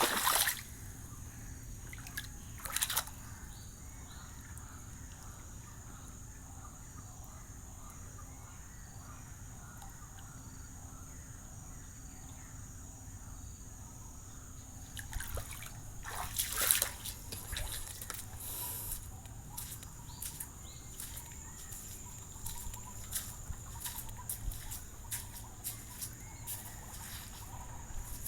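Floodwater trickling and dripping, with a few louder splashes and sloshes: one about 3 s in, a cluster around 15 to 19 s, and smaller ones after that.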